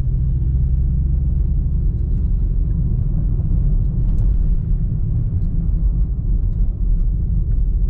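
Steady low rumble of a car driving in slow traffic, heard from inside the cabin, with a few faint ticks.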